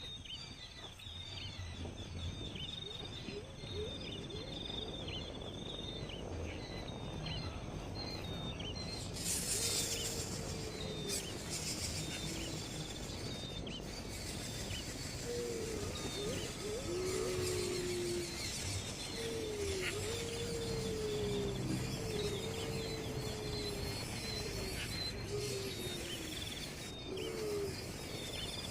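Birds calling: a steady run of short, high chirps, joined about halfway through by repeated lower calls that slide in pitch.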